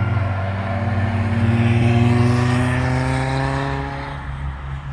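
Lotus Cortina's four-cylinder engine pulling as the car passes on the race track. The engine note climbs slowly, is loudest about two seconds in, then fades away.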